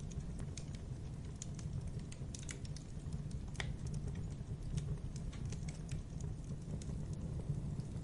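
Wood fire burning: a steady low rumble of the flames with frequent irregular crackles and pops from the burning wood.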